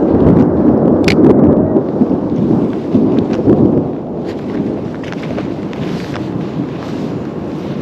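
Rolling thunder rumbling, loudest over the first few seconds and then easing off.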